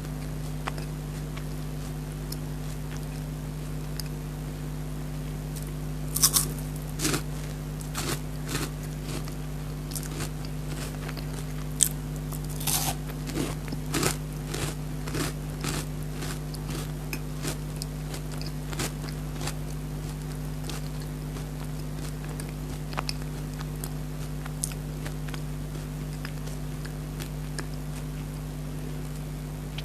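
Close-up biting and crunchy chewing of a Perk chocolate-coated wafer bar. The crunches are bunched between about six and sixteen seconds in and are sparse after that, over a steady low hum.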